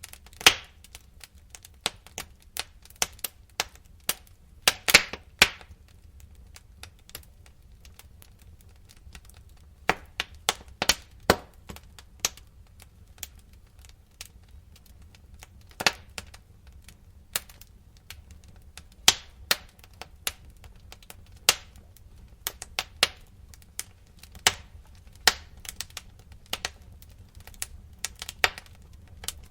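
Wood fire crackling in a fireplace: irregular sharp pops and snaps, a quick cluster of them about five seconds in, over a faint low rumble.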